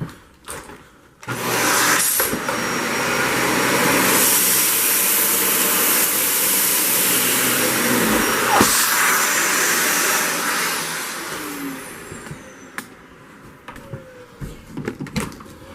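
Vacuum cleaner with its brush roll on, switched on about a second in and run steadily through a pass over carpet. It is switched off near the end, its motor spinning down with a falling whine.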